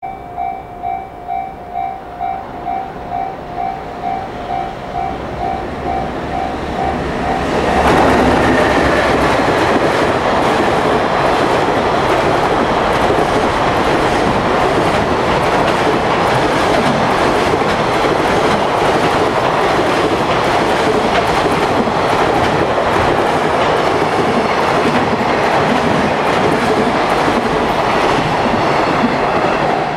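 A warning tone pulsing about twice a second and growing louder, then about eight seconds in a JR Freight container train arrives and its wagons pass at speed in a steady, loud rush of wheel-on-rail noise.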